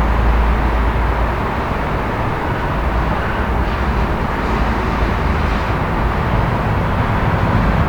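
City street traffic ambience: a steady wash of traffic noise with a deep low rumble that eases off about a second and a half in.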